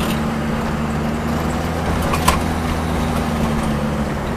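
Turbocharged Nissan Sentra's GA16 1.6-litre four-cylinder engine droning steadily at cruising speed with road noise, heard from inside the cabin, with one faint click about two seconds in. The car is running badly: the owner suspects a popped intercooler pipe or a ripped coupler leaking boost.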